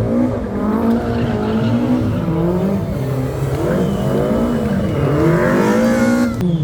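Rally car engine revving hard and easing off over and over, its pitch rising and falling about once a second, as the car is thrown through a slalom.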